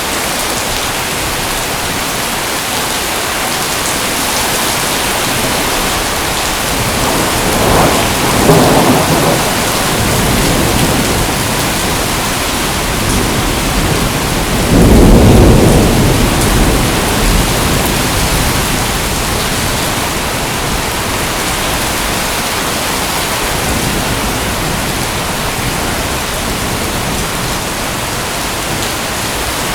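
Steady heavy rain with two rolls of thunder, the first about a quarter of the way in and the second, louder and deeper, about halfway through.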